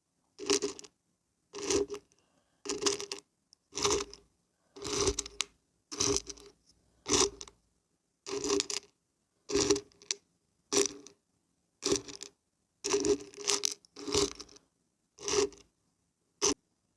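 Dried beans and barberries shaken, rattling in short bursts about once a second, with silence between shakes.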